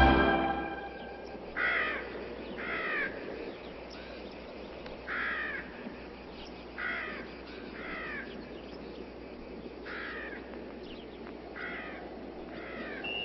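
Orchestral music dies away, then a bird gives a harsh cawing call eight times, some calls in quick pairs, over a low steady hiss.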